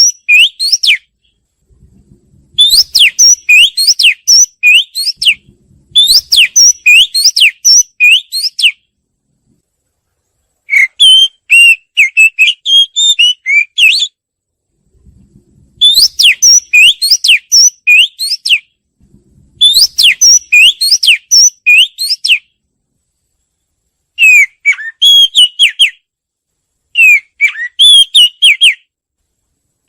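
Oriental magpie-robin singing: about eight loud phrases of quick rising and falling whistled notes, each phrase one to three seconds long, with short silent gaps between them.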